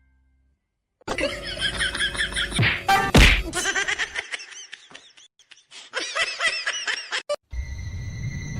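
People laughing in bursts, with a sharp knock about three seconds in.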